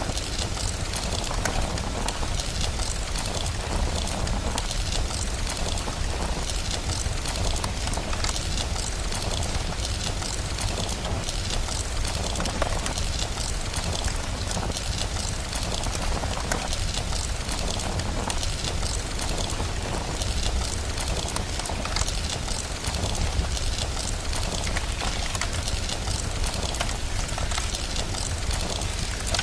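Steady rain hiss mixed with the dense crackle of a wood fire, a continuous even noise dotted with small pops.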